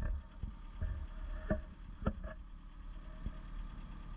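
Excavator engine running low and steady, with several sharp clicks and knocks scattered through it.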